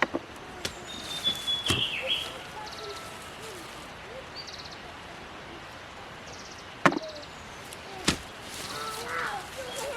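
Several sharp, irregularly spaced blows of a hand hoe digging into soil to lift potatoes, five strikes in all.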